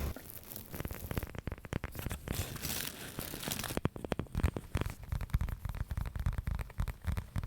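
Close-miked crinkling and crackling: a rapid run of small clicks with short bursts of hiss as an object is handled and scratched.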